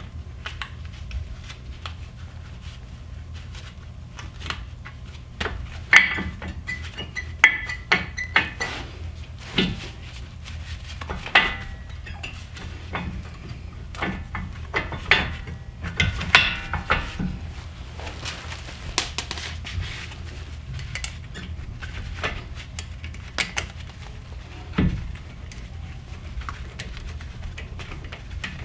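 Irregular sharp metallic clinks and taps of steel brake pad springs and clips being handled and fitted on a front brake caliper, over a steady low hum.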